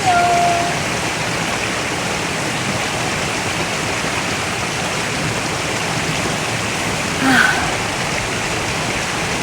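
Mountain valley stream rushing steadily, an even wash of flowing water, with one brief higher sound about seven seconds in.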